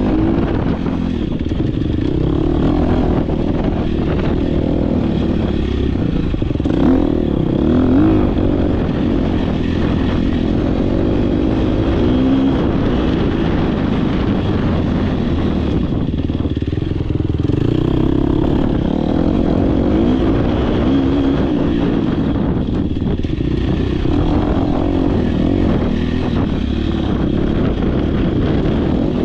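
Dirt bike engine racing off-road, revving up and falling back over and over as the rider works the throttle and gears, heard close from an on-board POV camera.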